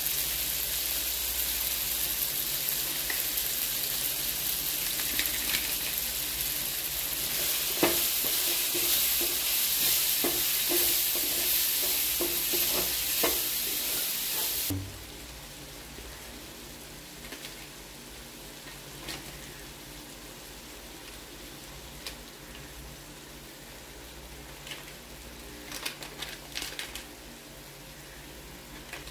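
Onion, tomato and green chilli masala sizzling in oil in a frying pan, with a wooden spatula scraping and knocking against the pan as it is stirred. About halfway through the sizzle drops suddenly to a much quieter one, with a few light taps near the end.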